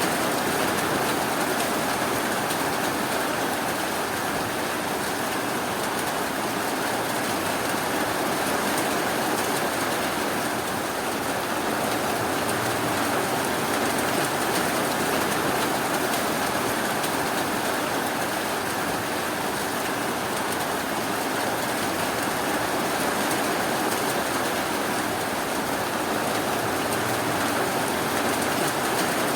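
Steady rain falling, an even hiss of rainfall with no breaks or distinct drops standing out.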